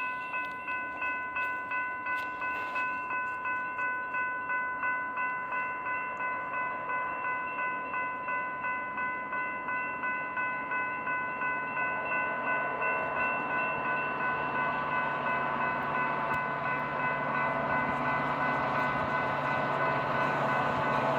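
Railroad grade-crossing bell ringing steadily about twice a second. Over the last several seconds the bell fades under a growing train rumble as a train approaches.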